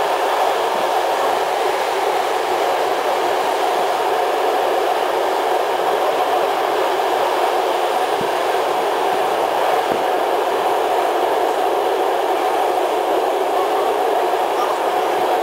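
Locomotive-hauled passenger train running at speed, heard from inside the coach: a steady rushing rumble of wheels on rails and passing air, with a couple of faint knocks past the middle.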